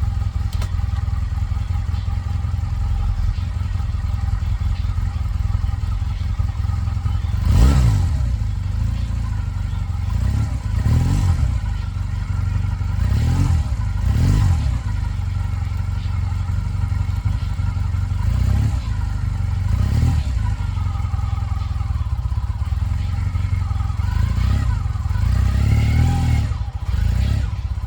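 Honda Rebel motorcycle engine idling, revved in a string of short throttle blips, each rising and falling back to idle, with a longer rev near the end.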